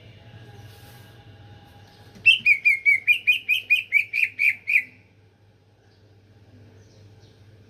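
Cucak ijo (green leafbird) calling: a quick run of about a dozen loud, evenly spaced chirps over roughly two and a half seconds, the lure call used to draw in these birds. It starts about two seconds in, over a faint steady hum.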